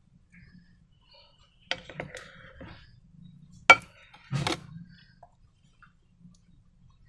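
Slime-making items being handled and knocked together: a few sharp clicks and knocks, the loudest about halfway through, among faint handling sounds.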